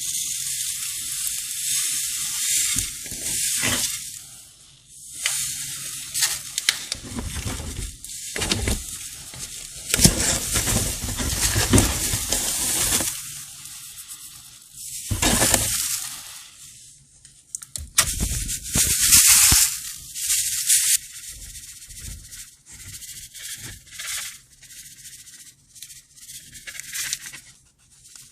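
Sand and glitter pouring onto gym chalk blocks: a grainy hiss that comes in several long pours with short pauses between them, loudest in the middle pours.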